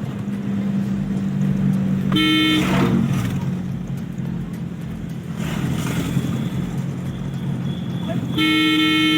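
Steady engine and road hum of a moving car, with a car horn honking twice: a short honk about two seconds in and a longer one near the end.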